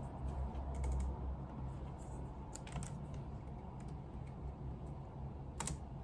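A few scattered keystrokes on a computer keyboard, the loudest near the end, over a steady low hum.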